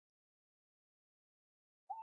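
Near silence, then right at the end an owl's hoot begins: a clear, steady whistled tone.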